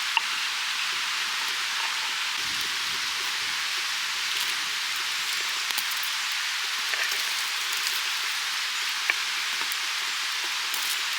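Yakitori skewers sizzling over a fire: a steady hiss with scattered sharp pops and crackles.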